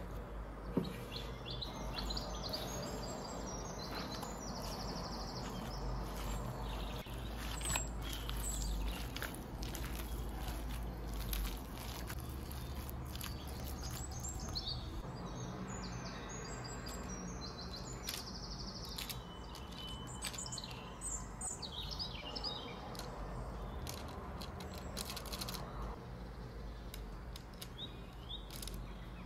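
Small birds chirping in short, scattered calls over a steady low background hum, with a few faint clicks.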